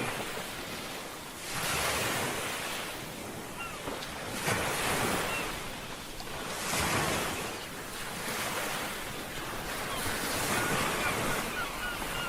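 Ocean surf washing in, a wave surging up about every two to three seconds over a steady wash of water and wind.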